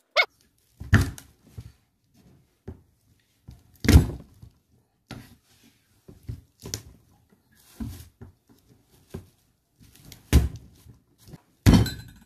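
Kitchen knife knocking on a plastic cutting board at irregular intervals while cutting onions, with a few louder thuds among lighter taps.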